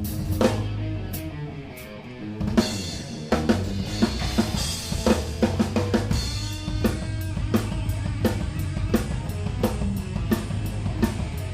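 Live rock band with the drum kit out front: the playing thins out about two seconds in, then a loud crash and drum fills lead back into a steady beat over bass guitar.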